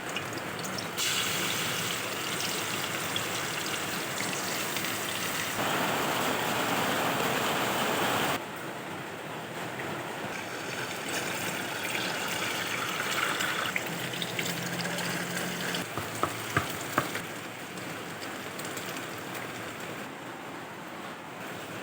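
Food frying in hot oil in a pan, a steady sizzle whose level jumps up and down at a few points. A few sharp clicks, like a utensil against the pan, come about two-thirds of the way through.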